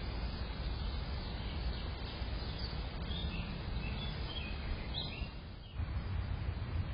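Steady outdoor background noise with a few short, high bird chirps in the middle. The noise dips and cuts off shortly before the end.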